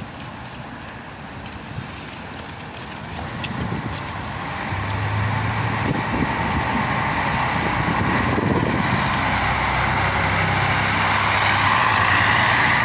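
MAN A23 articulated city bus running, its diesel engine hum and road noise growing louder as the bus gathers speed.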